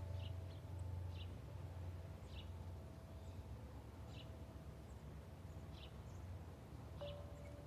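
Wind chimes ringing softly, their held tones fading slowly, with a new chime note struck near the end. Over them a bird chirps short high notes about once a second. A low steady rumble runs underneath.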